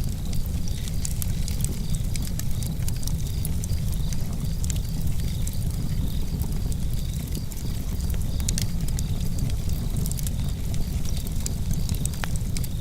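Campfire crackling, with scattered sharp pops and snaps over a steady low rumble. A faint, evenly repeating high chirp runs underneath.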